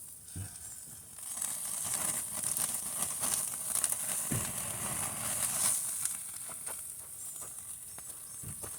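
Hamburgers sizzling over a campfire: a steady high hiss that swells for a few seconds, with scattered sharp crackles and pops.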